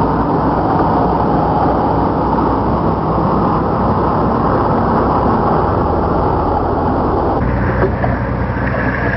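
Tractor-trailer truck running steadily, with engine and road noise, and the sound shifts about seven and a half seconds in.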